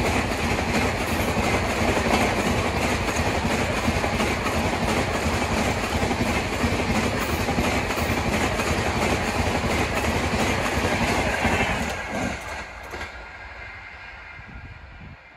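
Passenger train coaches passing close by at 130 km/h: a loud rush of wheels and air with rapid, even clickety-clack over the rail joints. About twelve seconds in the sound drops away to a faint background.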